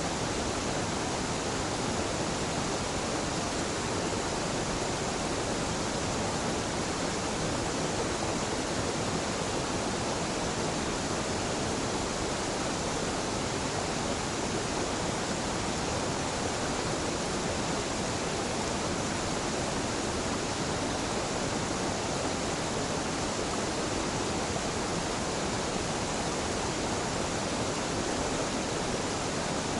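Waterfall on a mountain river, water rushing and splashing in a steady, unchanging roar of noise.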